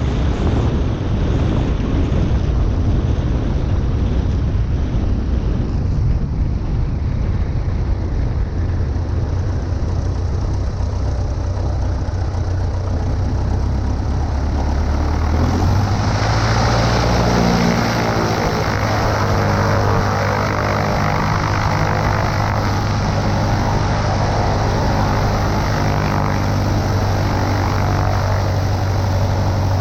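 Cessna 140A's light-aircraft piston engine and propeller running steadily. About halfway through, the engine note changes and settles into a steadier, more evenly pitched drone.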